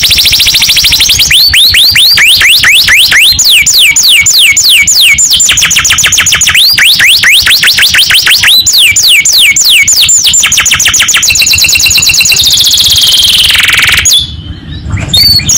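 Domestic canary singing at full volume: fast trills and runs of quick, downward-sliding whistles, with a short break about fourteen seconds in.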